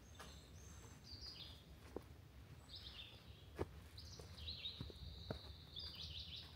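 Small songbirds chirping high and thin in short groups, with a longer run of calls over the last two and a half seconds. A few sharp snaps of footsteps on twigs and leaf litter, the loudest about halfway through, over a low rumble.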